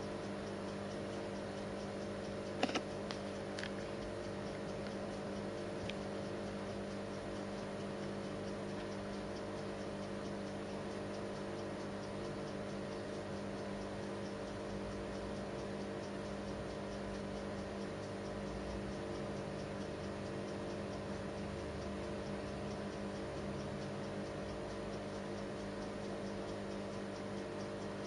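Steady hum of several constant tones over a faint hiss, with two or three soft clicks about three seconds in.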